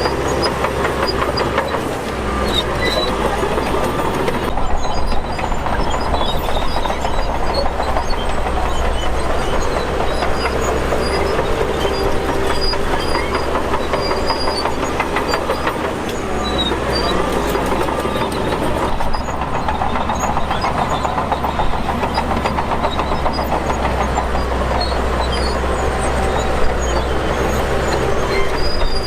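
Shantui DH17 crawler bulldozer working: its diesel engine running steadily while the steel tracks clank and rattle continuously.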